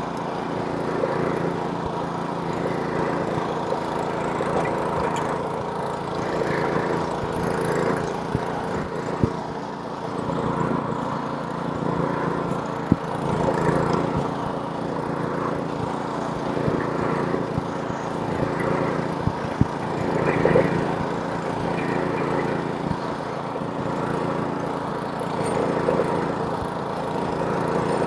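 Small-engine snowblower running steadily while clearing snow, its engine drone mixed with a broad rushing hiss, the level swelling and easing every few seconds as it works. A few sharp clicks stand out, about a third and halfway through.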